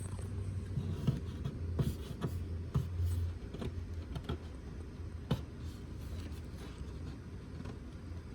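Irregular light clicks and taps, one sharper than the rest about five seconds in, over a low steady hum.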